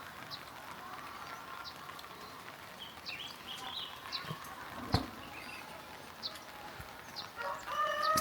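Small birds chirping here and there over a faint steady hiss, with a single sharp knock about five seconds in. Near the end a rooster starts to crow, its call carrying on past the end.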